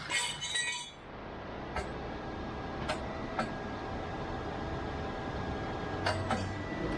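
Steady mechanical hum of a muffler shop at work, with a short crackling burst in the first second and a few sharp metallic clicks and taps after it.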